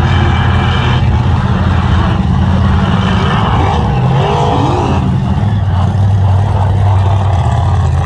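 Mega truck engine running loud, its pitch shifting a little past the middle.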